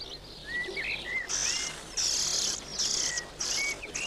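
European robin nestlings begging at the nest: short rising and falling chirps, then four hissy, high-pitched bursts in quick succession.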